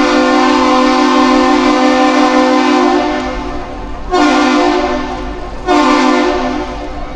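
Horn sounding the Great Lakes captain's salute: one long blast followed by two short blasts, in a deep, steady multi-note tone. This is the salute exchanged between a passing vessel and the Duluth Aerial Lift Bridge.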